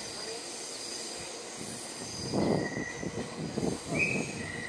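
Red Meitetsu electric train moving away through the station, its wheels squealing in thin, high steady tones. From about two seconds in there is a run of louder, uneven rumbling surges.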